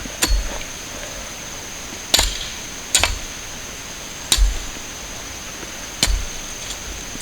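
Five sharp chopping strikes at irregular intervals: a blade cutting through sugar cane stalks.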